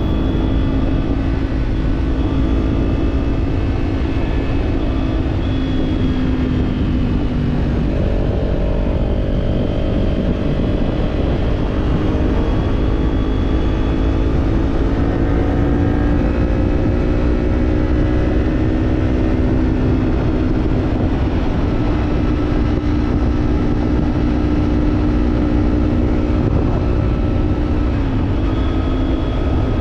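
Kawasaki parallel-twin motorcycle engine running under way, its note drifting slowly up and down with a step in pitch about eight seconds in, over heavy wind noise on the helmet or body-mounted camera.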